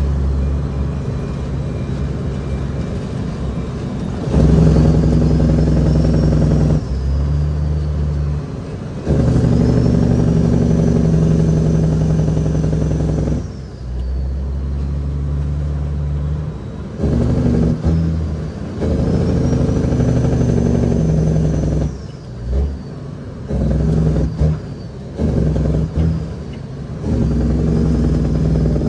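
Cat 6NZ inline-six diesel of a heavily loaded Kenworth W900L pulling hard, with a turbo whistle rising and falling. The engine note surges and drops off sharply several times, with a choppy stretch in the second half.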